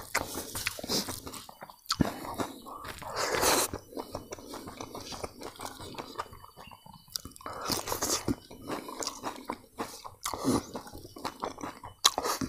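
Close-miked chewing of a mouthful of crispy fried grasshoppers and rice, with irregular crunches and wet mouth clicks and a few louder smacking bites.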